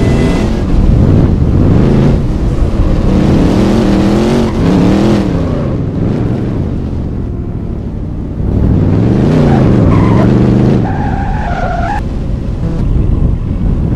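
Car engines revving hard, the pitch climbing and falling in several pulls. Near the end there is a brief high, steady squeal.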